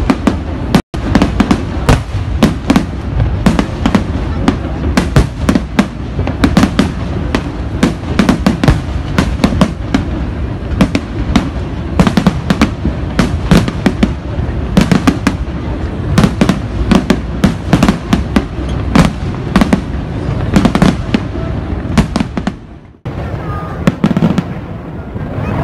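Large aerial fireworks display: a dense, rapid barrage of bangs and crackles over a continuous low rumble. There is a brief break about a second in, and a sudden drop near the end after which the bangs come more sparsely.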